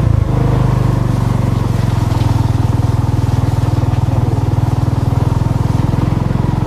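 A vehicle's engine running steadily at constant speed: a low drone with a fast, even pulse, heard from on board.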